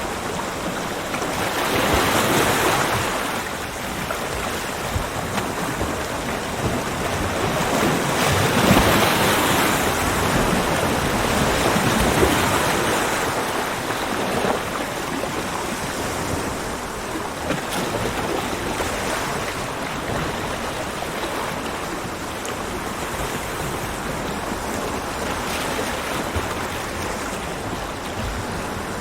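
Ocean surf: waves breaking and washing on a beach, one swell about two seconds in and a longer, louder one from about eight to thirteen seconds, with steady wash between.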